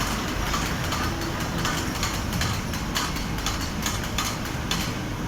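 Large fabric spreading machine running: a steady mechanical hum with frequent irregular clicks.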